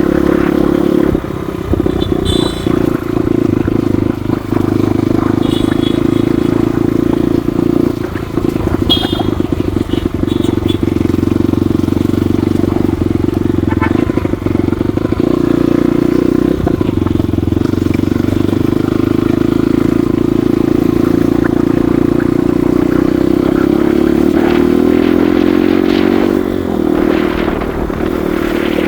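Motorcycle engine running steadily while riding, its pitch shifting a few seconds before the end.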